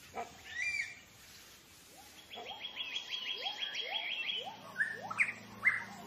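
Several forest birds calling: short chirps, then a rapid trill of high notes about two seconds in, with a run of short rising calls beneath it, and a few sharp upward-sweeping notes near the end.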